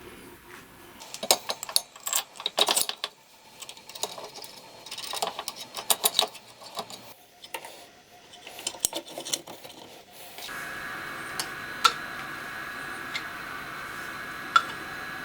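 Small metal parts and tools clinking and rattling as they are handled, in irregular clusters. About ten seconds in a steady, even hum with a high tone starts and runs on, with a few single ticks over it.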